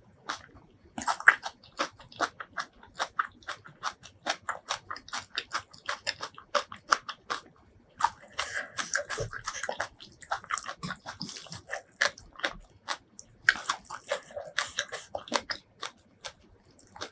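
Close-miked chewing and biting of food: a fast run of sharp, wet clicks, with denser, noisier stretches about halfway through and again near the end.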